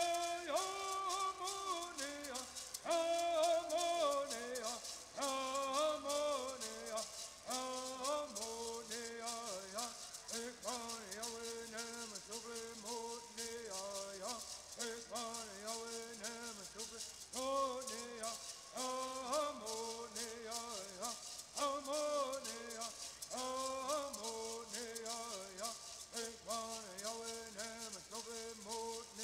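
Southern California bird songs: voices singing in unison over gourd rattles shaken in a fast, steady rhythm.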